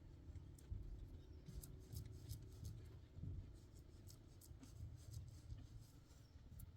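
Faint scratching and scraping with scattered light clicks, as of a hand tool or brush worked against a surface.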